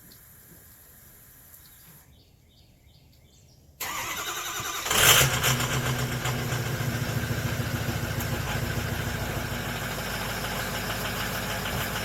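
Stock 2006 Ford F-250's 6.0 Powerstroke V8 turbo-diesel cold-starting. After a few quiet seconds the starter cranks for about a second, the engine catches with a loud burst about five seconds in, then settles into a steady idle.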